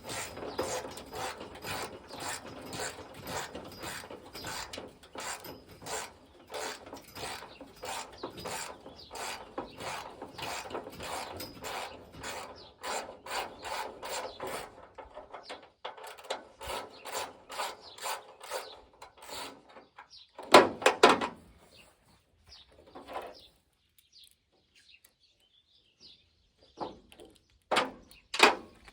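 3/8-inch drive socket ratchet clicking in repeated back-and-forth strokes, working fasteners loose on an old rusted pickup tailgate. Louder bursts come about two-thirds of the way through and again near the end.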